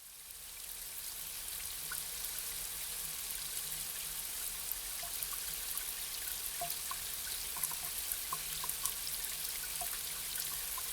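Light rain falling: a soft, even hiss with scattered individual drops ticking through it, fading in over the first second or two.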